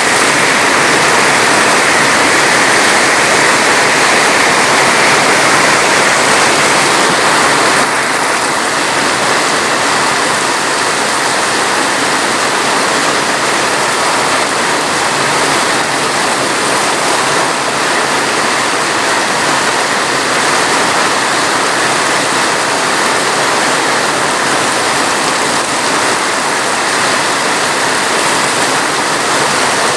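Steady heavy rain, a dense even hiss of water, stepping down slightly in level about eight seconds in.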